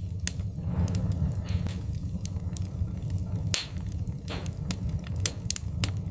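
Wood fire in a fireplace crackling: irregular sharp pops and snaps over a steady low rumble of the flames, with a couple of brief hissing flares.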